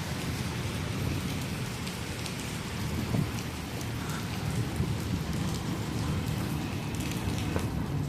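Steady rain falling, with scattered ticks of drops hitting surfaces and a low rumble underneath.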